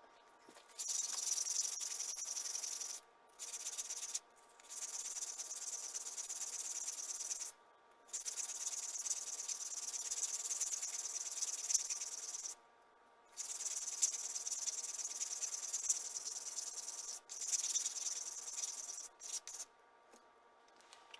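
High hissing of a tool cutting or abrading metal, in runs of a few seconds that stop and start abruptly with short pauses between them.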